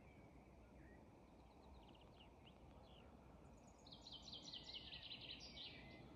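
Faint birdsong over a low, steady background hiss: scattered high chirps, then about four seconds in a songbird sings a quick run of repeated high notes lasting about two seconds.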